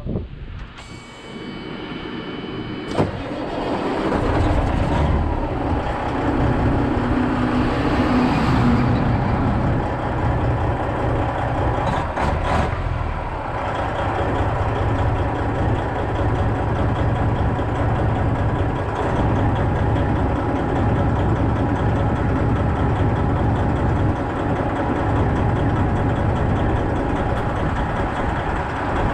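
Semi-truck's diesel engine running steadily, getting louder about four seconds in. Just before that there is a brief steady tone and a sharp click.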